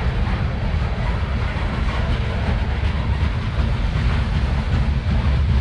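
CSX freight train rolling past on the rails, a steady rumble with wheel clatter over the rail joints; it is most likely the coal train's cars.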